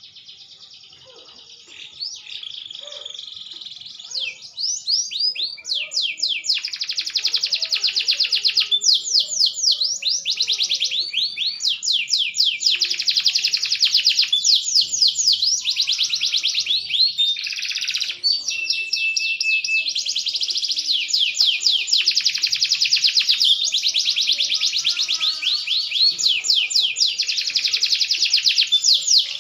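Green domestic canary singing a long, continuous song of fast trills and rapid repeated sweeping notes. It starts soft and grows louder and fuller over the first few seconds.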